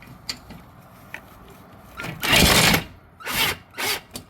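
Cordless drill run in three short bursts, the first and loudest about two seconds in and lasting about half a second, then two shorter ones, backing out a screw on a garage door track bracket. A few light clicks come before, from the drill and bracket being handled.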